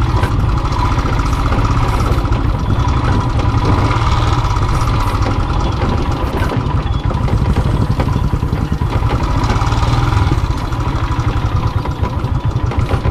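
Royal Enfield single-cylinder motorcycle engine running at a steady, low speed, its fast firing pulses continuous, with the level easing slightly near the end.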